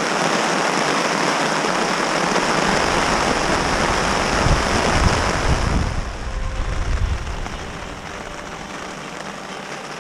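Heavy rain pouring down, loud and steady, then easing abruptly about six seconds in, with low gusts of wind buffeting the microphone around the change.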